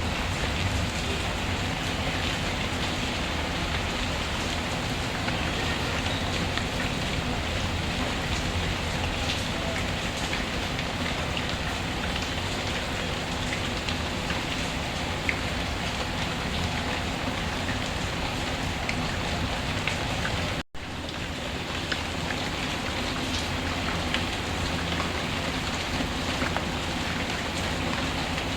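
Steady rainfall mixed with a wood fire, with a few faint crackles over the even hiss of the rain. About two-thirds of the way through the sound drops out for a fraction of a second, then resumes.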